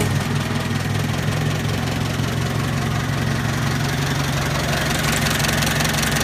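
155 cubic inch Waukesha engine of a small tractor running steadily at idle.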